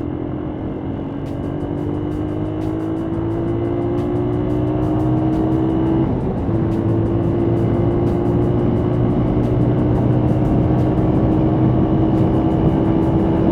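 Motorcycle engine under acceleration, its pitch climbing steadily, with a short break about six seconds in as it shifts up a gear before climbing again, over wind and road noise.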